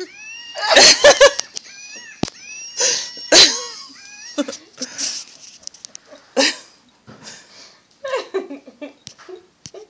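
Electronic monkey toy playing its recorded monkey calls: shrill warbling screeches and chatter with sliding pitch. The loudest shrieks come about a second in and again near 3.5 s, then shorter bursts trail off.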